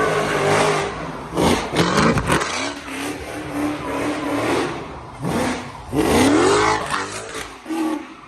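A car engine revving hard several times, its pitch climbing on each rev, with the strongest rising rev about six seconds in.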